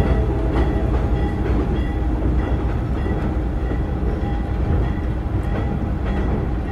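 A train rolling across a steel truss railway bridge: a steady low rumble with scattered clacks of wheels over rail joints. The sound eases off slightly as the cars move away.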